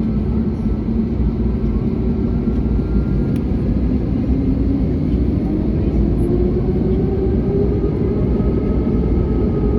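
Airbus A321neo's Pratt & Whitney PW1100G geared turbofan engines running, a steady loud rumble with faint engine tones, one of which rises slowly in pitch in the last few seconds.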